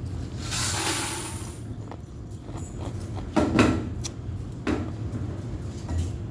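Ice being crunched and chewed, with a few short, loud crunches in the second half, over a steady low hum of laundromat machines.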